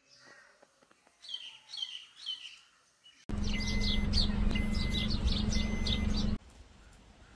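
Songbird calls from two spliced recordings. First come three short chirps, each falling in pitch. Then, after an abrupt cut, a louder burst of rapid, repeated chirping runs over a steady low hum and stops suddenly.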